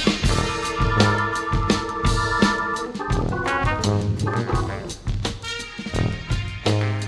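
Jazz band music: trumpets, baritone saxophone and tuba hold a chord for about three seconds, then move through shorter notes over a drum kit.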